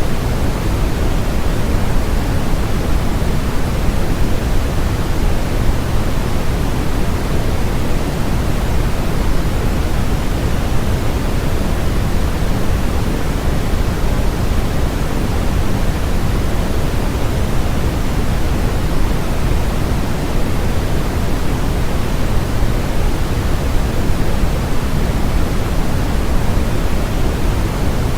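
Steady synthesized white noise: an even, unchanging hiss across the whole range, heavier in the low end than the high.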